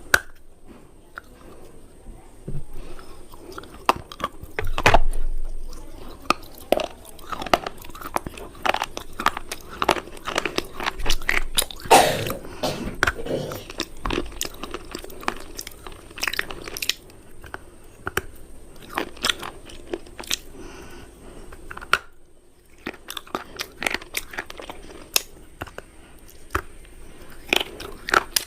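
Someone biting and chewing hard, crunchy cubes: many sharp crunches in quick, irregular succession, with the loudest bites about five and twelve seconds in.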